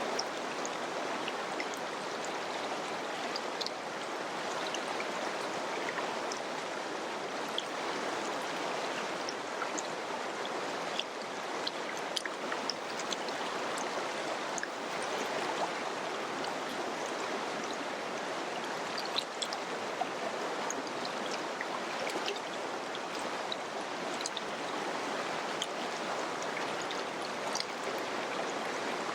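Mountain river flowing over rocks: a steady rush of water with small splashes and trickles scattered throughout.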